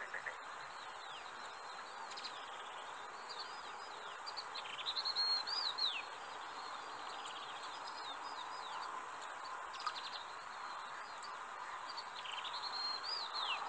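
Small birds calling, many high, thin chirps and short down-slurred notes, busiest about five seconds in and again near the end, over a steady faint hiss. The caller is taken for the vinous-throated parrotbill.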